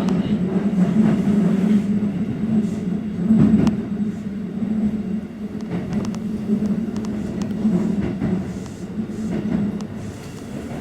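Keikyu 600 series commuter train running at speed, heard inside the passenger car: a steady rumble of wheels on rail with occasional short clicks. The rumble eases slightly near the end.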